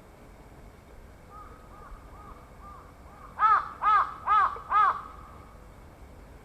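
Crow cawing: a faint run of calls, then four loud caws in quick succession about halfway through.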